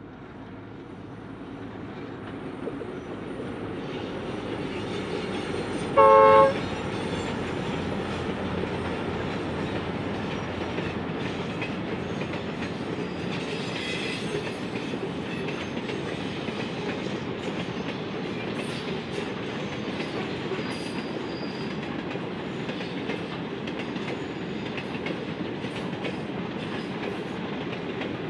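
Grain train passing: the diesel locomotives grow louder as they approach and give one short horn blast about six seconds in. Then a long line of loaded grain hopper wagons rolls by with a steady clatter of wheels on the rails.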